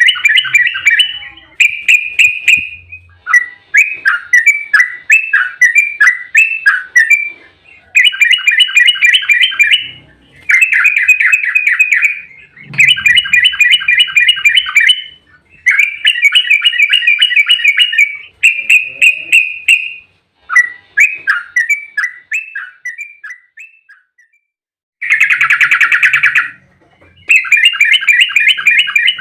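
Yellow-vented bulbul (trucukan) singing a fast, bubbling chattering song in repeated phrases of a second or two each. There is a brief silent break about three-quarters of the way through.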